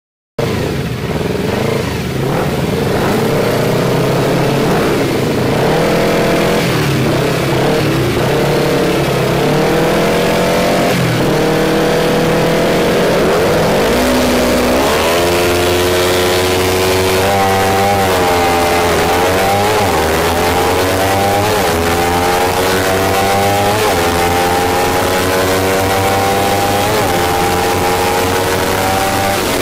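Kawasaki Ninja 300 parallel-twin engine through a full-system race exhaust, heard onboard. For the first half the revs are held and wavering, as on the start line. About halfway through it launches and accelerates hard through several gears, the pitch climbing and dropping back at each upshift.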